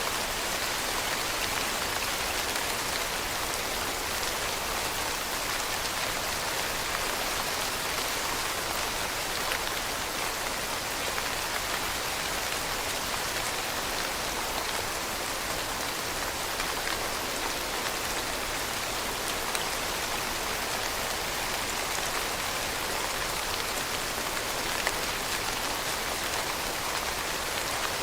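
Steady, dense rain falling, a constant hiss of many drops with fine pattering detail.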